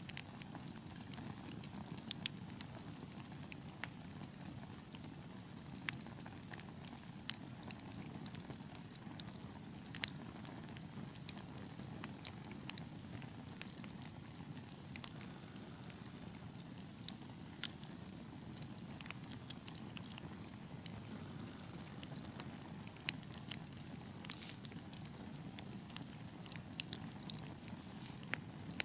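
Wood fire crackling: a steady low rush of burning with irregular sharp pops and snaps scattered throughout.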